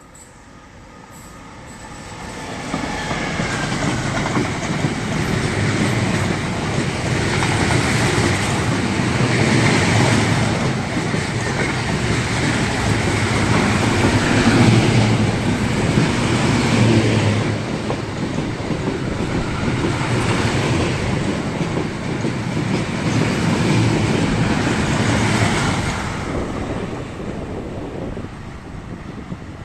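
A train passing by, its wheels clattering over the rail joints. It builds up over the first few seconds, stays loud for over twenty seconds, then dies away near the end.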